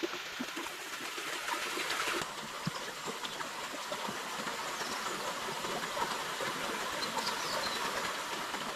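Stream water running steadily, an even rushing hiss with faint scattered ticks.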